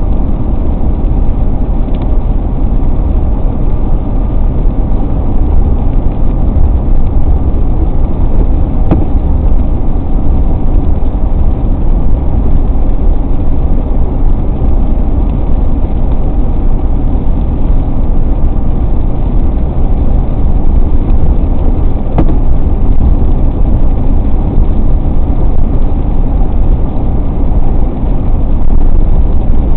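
Steady, loud low rumble of a car driving at highway speed: road and engine noise.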